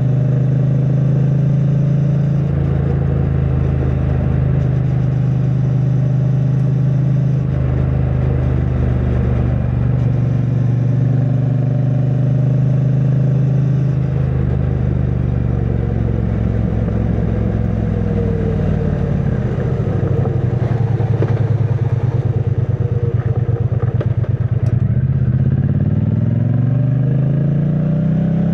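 2022 Triumph Bonneville T100's 900 cc parallel-twin engine through its stock exhaust, running under way at steady revs. About two-thirds through, the revs fall away as the bike slows, then climb again near the end as it accelerates.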